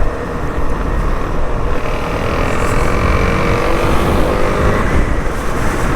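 Suzuki DR-Z400S single-cylinder four-stroke engine running steadily while the bike is ridden, with heavy wind rumble on the rider's helmet microphone.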